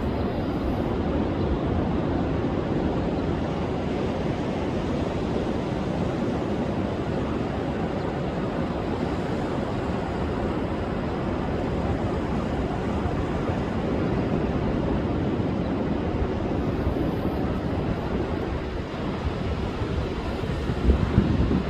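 Rough storm surf breaking steadily on a beach under a wind-and-wave advisory, with strong wind rumbling on the microphone.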